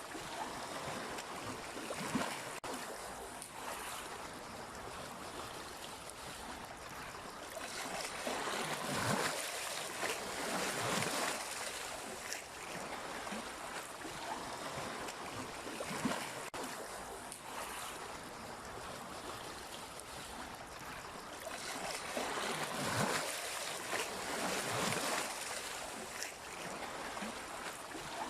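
Sea waves washing ashore: a steady rush of surf that swells louder twice, each time over a few seconds, with a few short clicks.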